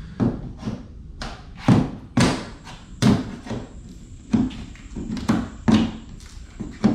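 A run of irregular thuds and knocks, about a dozen in all, as a stapled shipping crate for a motorcycle lift is worked open.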